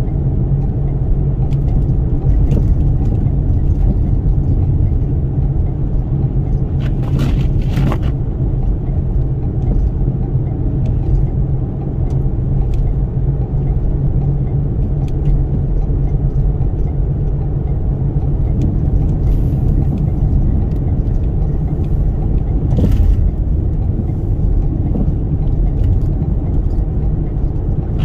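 Steady low rumble of a Toyota Sienna minivan driving, heard from inside the cabin, with a few brief knocks or clicks about seven seconds in and again near twenty-three seconds.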